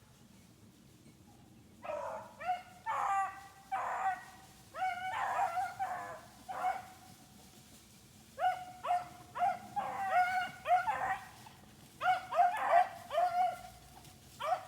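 A pack of rabbit hounds baying as they run a rabbit's scent trail: short, repeated bays and yelps in bunches, starting about two seconds in, with a brief lull midway.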